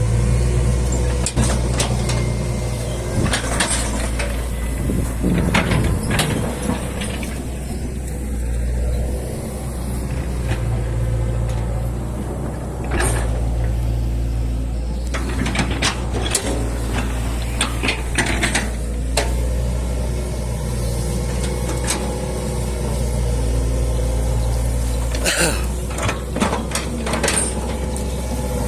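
Excavator's diesel engine running steadily under load, with repeated sharp cracks and knocks in clusters.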